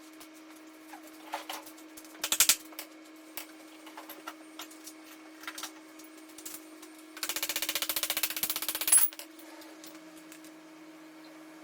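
Metal hand tools working the fasteners on a dirt bike's front wheel: scattered metallic clinks and knocks, then a fast, even rattle for about two seconds starting about seven seconds in, ending with a sharp knock. A steady low hum runs underneath.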